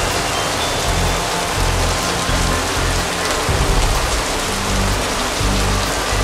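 Heavy rain falling with a steady hiss, with background music underneath whose low bass notes change every half second or so.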